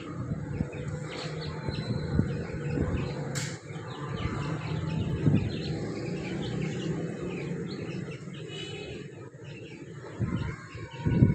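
Small birds chirping and cheeping, many short calls, over a steady low background noise.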